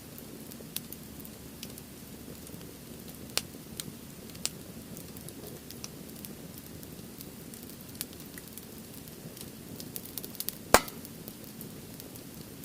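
Firewood burning in a Uniflame Fire Grill: a steady low rush of flame with scattered sharp crackles and pops, one much louder pop near the end.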